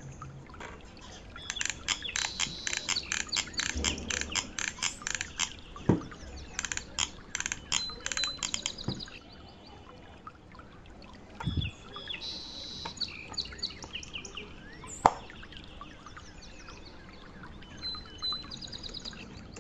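Small birds chirping, with fast runs of short high chirps in the first half and scattered calls later, plus a couple of low knocks.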